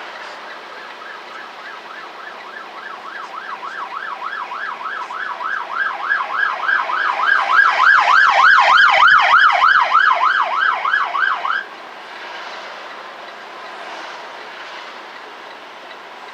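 Emergency vehicle siren in a fast yelp, about four up-and-down sweeps a second. It grows louder as it approaches, is loudest about eight to ten seconds in, then cuts off suddenly shortly before twelve seconds. A steady rushing noise lies underneath.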